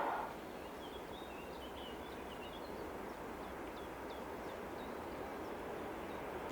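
A small bird chirping in a run of short, high notes over a faint, steady outdoor background noise.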